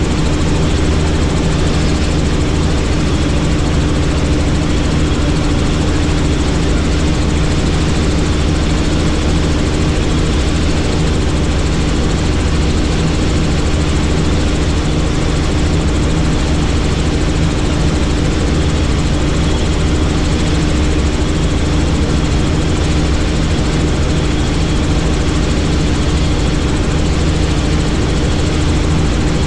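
Helicopter turbine and rotors running steadily in flight, a loud constant drone with a low steady hum over a wide rush of noise.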